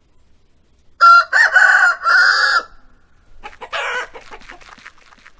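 Rooster crowing once, a loud cock-a-doodle-doo in three parts starting about a second in. It is followed by a shorter, rougher call and a run of quick clucks.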